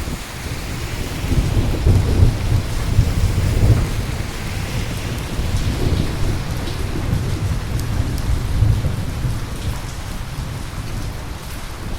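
Steady rain with rolling thunder: a low rumble swells about a second in, rolls on in waves, and eases off near the end.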